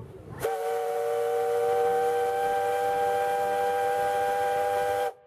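Steam whistle blowing one long blast of about four and a half seconds, a steady chord of several tones, starting about half a second in and cutting off sharply.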